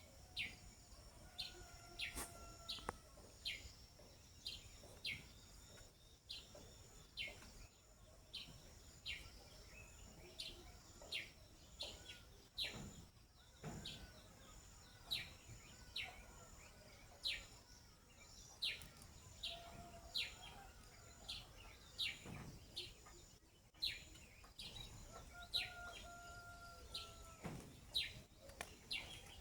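A bird chirping over and over, short high notes that fall in pitch, about one or two a second.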